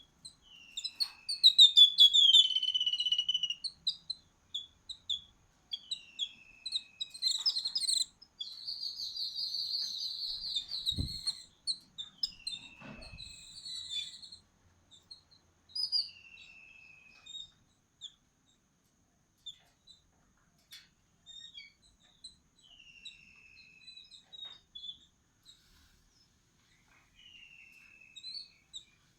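Small birds chirping and calling, with short downward-sliding calls repeating every few seconds and a longer buzzy trill near the middle. Two brief low thumps come a little before and after the middle.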